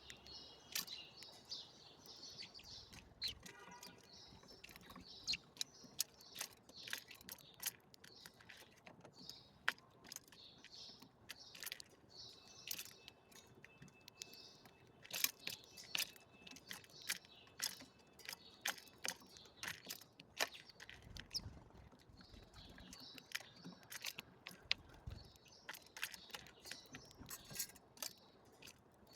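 Small birds chirping softly in patches, with many sharp, irregular ticks and taps throughout.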